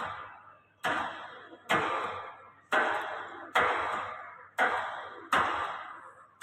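Repeated bouncing impacts on a bungee trampoline, about one a second, each a sharp thud followed by a fading rustling tail.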